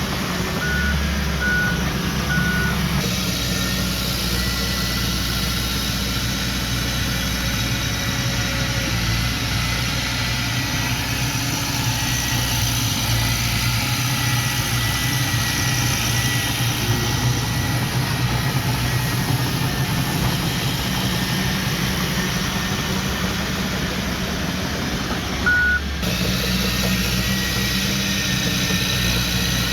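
Diesel engines of a small bulldozer and dump truck running steadily. A reversing alarm beeps three times about a second in and once more near the end.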